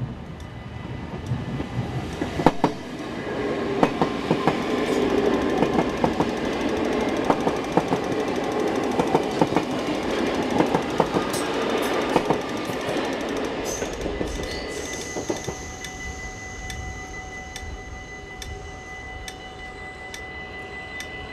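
NS VIRM double-deck electric train passing at speed, its wheels clacking over the rail joints in a steady rush. As it clears, about two-thirds of the way in, the rumble fades and the level-crossing bell goes on ringing with steady tones and regular ticks.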